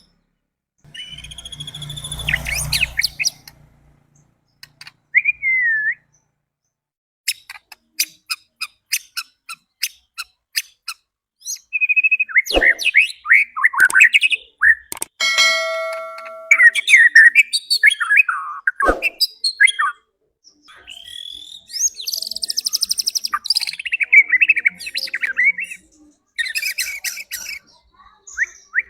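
White-rumped shama (murai batu) singing a varied song of sweeping whistles and warbles, with a run of sharp ticking notes early on and a held, buzzy note past the middle, broken by short silent gaps. It is a bait song meant to rouse other shamas into singing.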